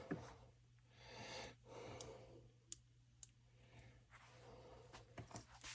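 Near silence: room tone with a low steady hum and a few faint, sharp clicks in the middle.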